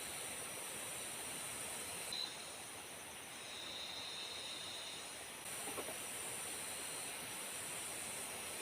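Heavy rain falling steadily in forest. A high, shrill whine sits above it and stops for about three seconds around the middle.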